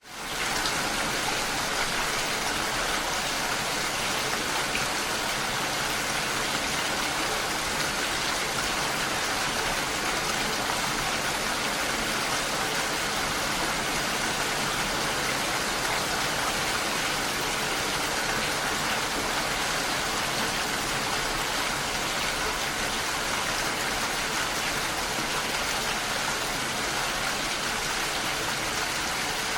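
Steady rainfall, an even hiss of rain falling without a break.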